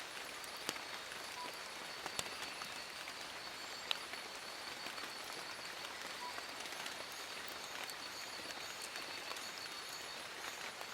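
Steady rain falling on forest leaves: an even hiss with scattered sharper drips, three louder drops in the first four seconds. A faint steady high tone runs underneath.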